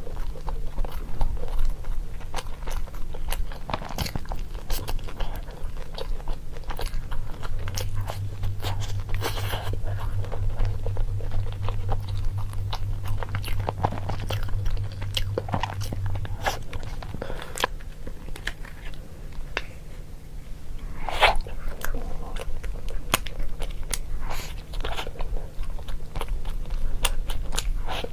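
Close-miked biting and chewing of crunchy food, with dense irregular crunching clicks over a steady low hum.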